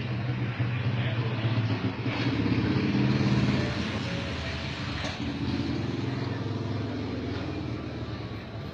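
Yamaha R15's single-cylinder engine running through an aftermarket SC Project exhaust, idling with a steady note and revved up twice, strongly about two seconds in and more lightly around the middle, before settling back.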